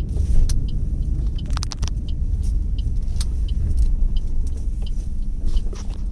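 Steady low rumble of a car on the move, heard from inside the cabin, with scattered light clicks and rattles.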